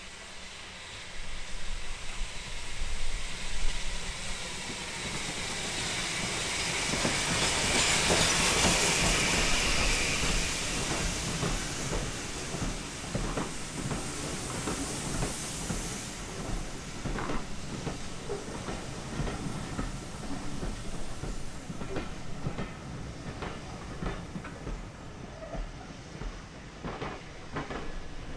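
Steam train passing: steam hiss swells to its loudest about a third of the way in, then gives way to a run of wheel clicks over the rail joints as the coaches go by.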